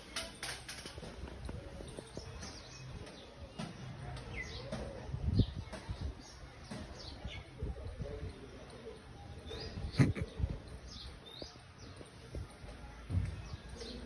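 Small birds chirping with short, scattered high calls, over a low rumble. A few sharp knocks cut in, the loudest about ten seconds in.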